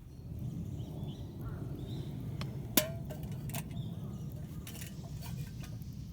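One sharp metallic clink, with a brief ring, about three seconds in, like camp cookware being knocked. It sits over a steady low rumble with a few faint scattered ticks.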